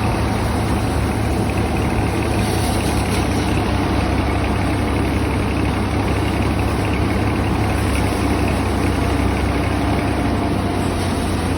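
Tractor engine running steadily, a constant low rumble with no change in speed.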